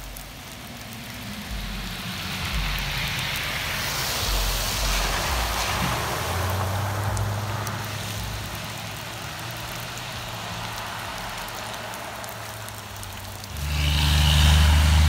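A motor vehicle's engine running steadily over a rushing noise, the engine becoming much louder about a second and a half before the end.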